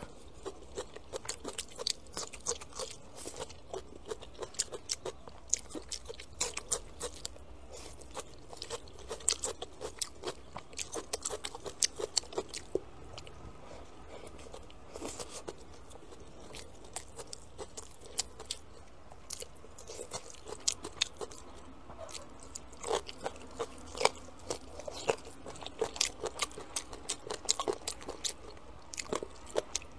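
A person chewing and biting food close to the microphone, with many short, irregular crunches and wet mouth sounds.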